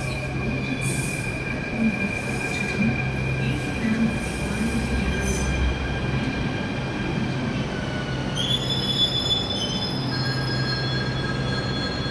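Train rolling through a station, its wheels squealing on the rails in several steady high-pitched tones over the low rumble of the coaches. The squeal shifts to a new, higher set of tones about eight seconds in.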